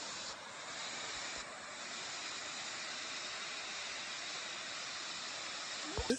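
Steady rushing water, an even hiss with no break, with a brief low bump near the end.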